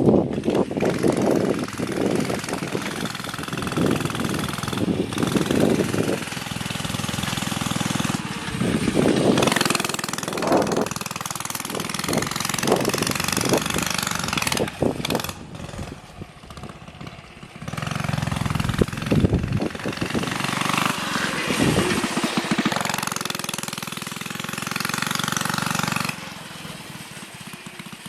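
Coleman CT100U minibike's single-cylinder engine, governor bypassed and fitted with an aftermarket exhaust and mini muffler, running under load as the bike is ridden. Engine speed rises and falls, easing off briefly about halfway through and again near the end.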